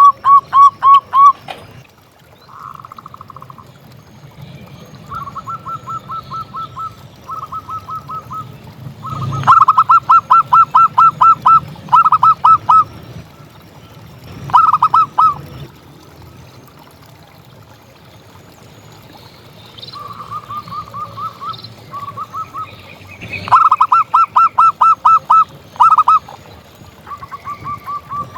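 Zebra dove (perkutut) song: phrases of quick, short, staccato coos, about five or six a second. Loud phrases alternate with quieter ones throughout.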